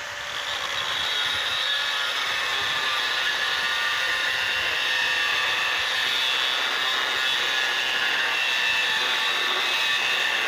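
Grinder cutting, a steady high-pitched whine and hiss of the disc held in the cut without a break.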